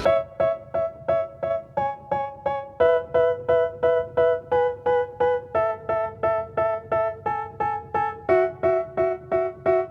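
Background music: a solo keyboard with a piano sound, striking an evenly repeated pattern of chords at about three a second. The chords step lower a few times.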